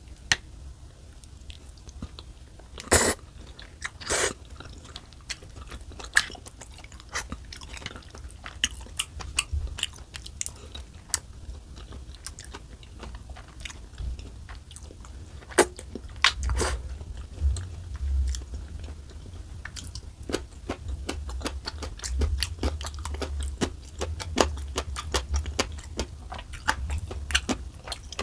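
Close-miked mukbang eating sounds: wet chewing and mouth clicks on rose tteokbokki noodles and rice cakes, with two louder, longer mouth sounds about three and four seconds in.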